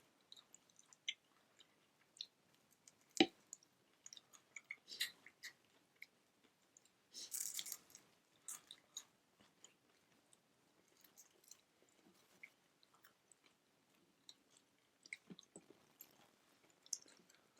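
Faint close-up eating sounds: chewing and biting with scattered small clicks and crunches, a sharp knock about three seconds in, and a short crunchy noise around seven seconds.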